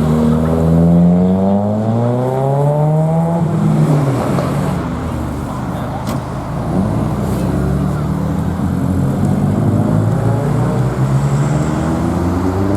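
Vehicle engine accelerating, its pitch rising steadily over the first three and a half seconds, then a loud mixed wash of engine and road noise, and another engine climbing in pitch near the end.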